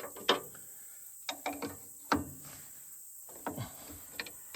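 Hand tools working on metal fittings: about six irregular, sharp metallic clicks and clinks, some with a brief ring, of the kind a ratchet wrench makes.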